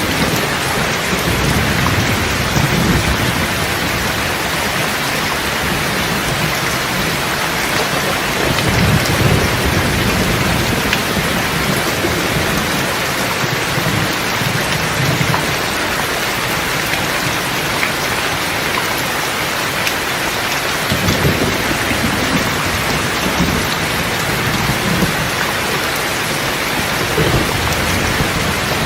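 Steady rain falling, with low rolls of thunder rumbling several times underneath.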